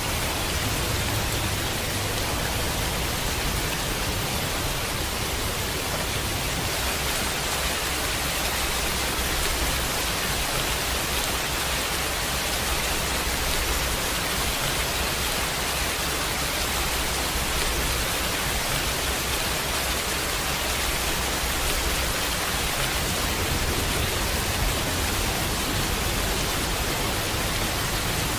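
Steady heavy rain, an even hiss with a low rumble underneath that swells and fades.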